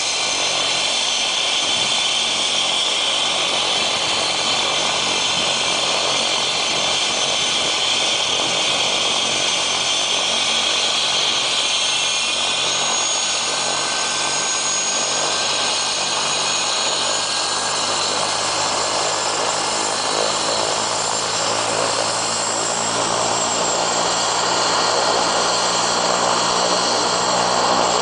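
Helicopter running close by: a loud, steady engine and rotor noise with steady high-pitched tones over it, unbroken throughout.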